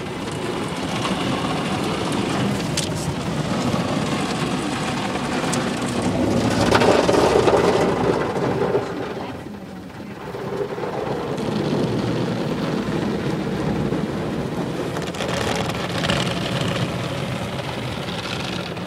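Automatic brush car wash running over the car, heard from inside the cabin: a steady rush of water spraying and pelting the body. It swells to its loudest about seven seconds in and dips briefly near ten seconds.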